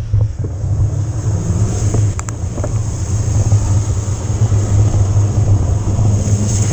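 Riding noise from an e-mountain-bike ride: a steady, loud low rumble of wind and tyres on the camera microphone, with a couple of sharp clicks or rattles a little over two seconds in.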